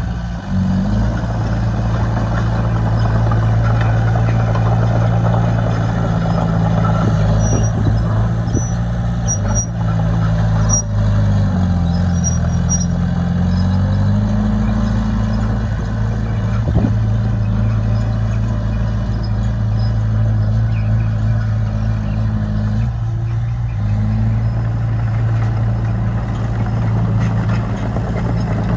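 Heavy construction machine's diesel engine running steadily. About halfway through its pitch sags briefly, then recovers, as under load.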